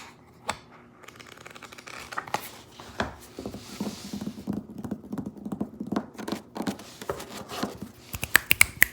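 Hands making ASMR sounds: quick fingertip and fingernail taps and scratches on a table, with fuller rubbing in the middle and a run of sharper, louder clicks near the end.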